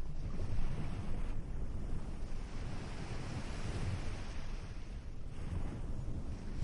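Ocean surf washing onto a beach, surging twice, with a low wind rumble on the microphone underneath.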